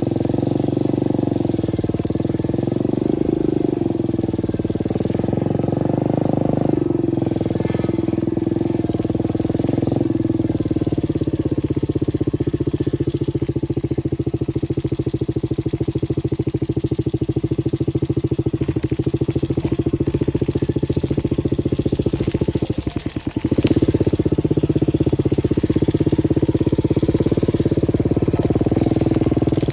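125cc dirt bike engine running steadily while riding, its pitch rising and falling a little with the throttle. About 23 seconds in it drops off briefly, as when the throttle is closed, then picks back up.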